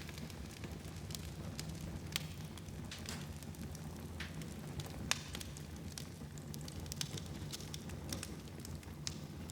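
Wood fire burning in a fireplace: a steady low rumble of flames with irregular crackles and pops, a few sharper snaps standing out.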